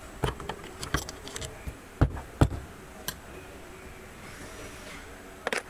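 Hard objects being handled: scattered clicks and knocks, two louder knocks about two seconds in and a quick cluster of clicks near the end. No impact wrench running.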